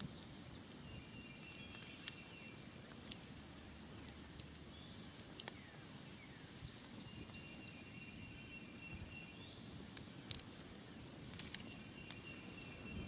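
Smoldering campfire crackling, with sparse sharp pops, the loudest about two seconds in. Over a soft background rumble, a high trilled call sounds three times, each lasting about a second and a half, and short falling bird chirps come in the middle.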